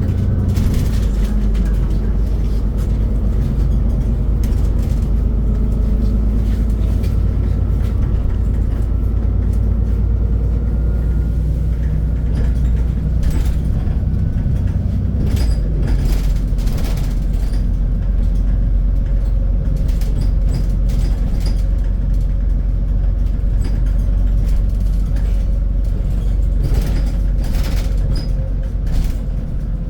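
Scania Citywide city bus under way, heard from inside: a steady engine and drivetrain rumble with a whine that climbs slowly as the bus gathers speed. The engine note changes about halfway through, and short knocks and rattles come and go.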